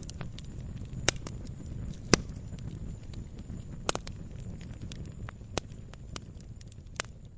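Firewood burning: irregular sharp pops and snaps of the burning wood over a steady low rumble of the flames, with the loudest pops about one and two seconds in.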